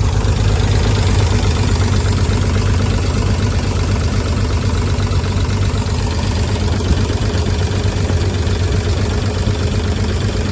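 A 1953 Chevrolet 3600 truck's engine idling steadily and evenly, running smoothly, "just like a sewing machine."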